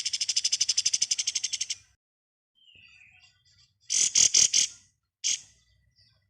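Kapas tembak (black-winged flycatcher-shrike) singing its 'ngebren' song: a fast rattling trill of about a dozen notes a second lasting nearly two seconds. After a pause come a quick cluster of about five loud sharp notes about four seconds in, and one more just after five seconds.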